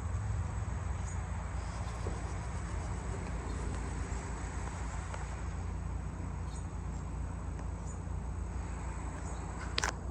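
Outdoor ambience: a steady high-pitched insect drone over a low rumble, with one sharp click near the end.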